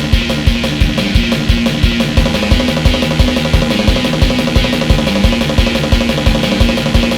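Fast, loud heavy rock instrumental with distorted guitar and a rapid, steady bass-drum pulse.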